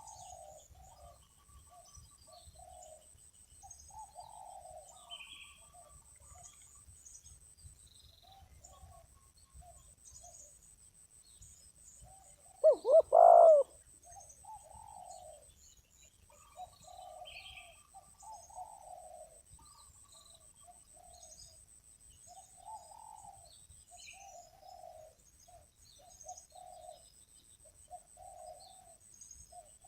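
Spotted doves cooing again and again, with one loud, close coo of three quick notes about 13 seconds in. Small chirps from other birds and a steady high-pitched whine sit behind it.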